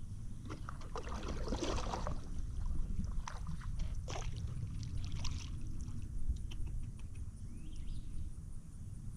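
Paddle strokes dipping into river water, with splashing and dripping in uneven bursts, over a steady low rumble.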